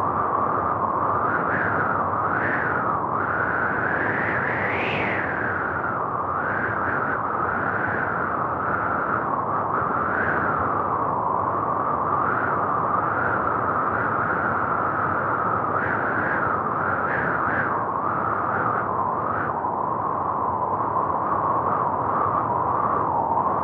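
Steady rushing noise of a car driving through a snowstorm, road and wind noise together, swelling briefly every second or two, most strongly about five seconds in.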